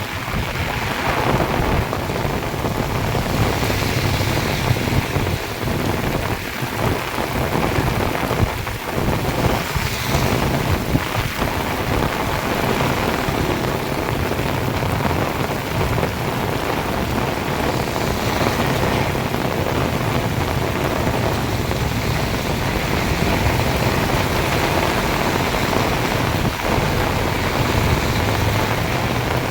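Heavy tropical downpour, loud and steady, with a low rumble running underneath.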